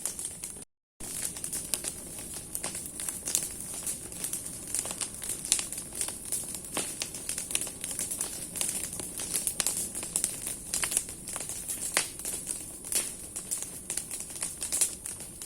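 Large bonfire of burning branches crackling: dense, irregular pops and snaps of the wood over a steady hiss. The sound cuts out completely for a moment just under a second in.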